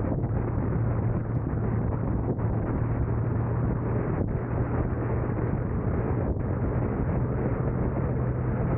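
Car driving: steady road and wind noise with a constant low drone, and wind on the microphone.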